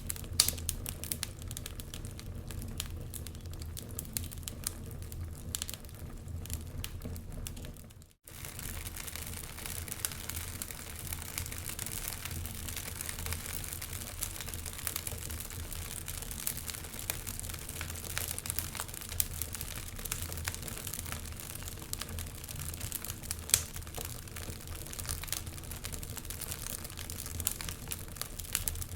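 Wood fire crackling, with many small sharp pops over a low steady rumble. The sound drops out for a moment about eight seconds in, then carries on with brighter crackle.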